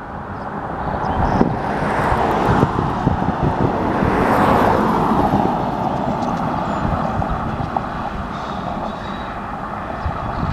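A mixed freight train rolling past on the rails: a steady rumbling noise that swells to its loudest about four to five seconds in, then runs on a little quieter.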